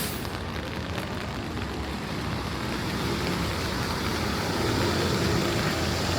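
Steady rain on a city street with traffic on the wet road; a vehicle's tyres hiss on the wet pavement, growing louder about halfway through.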